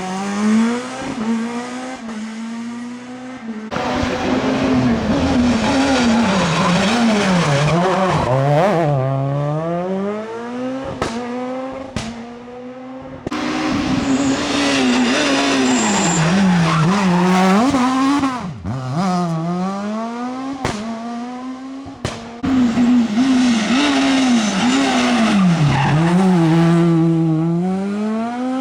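Rally car engines driven hard: revs climbing and dropping again and again through gear changes and braking, with a few sharp cracks, in several short clips cut one after another.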